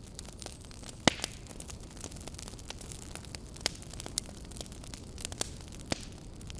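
Wood campfire burning with irregular sharp crackles and pops over a low steady rumble of flames; the loudest pop comes about a second in.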